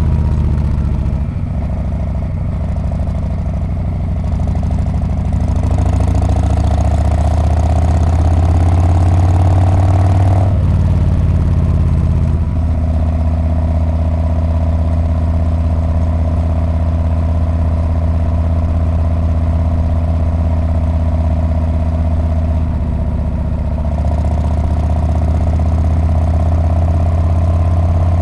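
Harley-Davidson Street Bob V-twin engine and exhaust running steadily, a deep note with strong low tones. The engine note changes once between about ten and twelve seconds in, then settles again.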